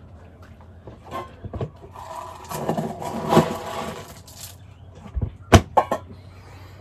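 Household handling noises: a scraping, rustling stretch, then a few sharp knocks about five seconds in.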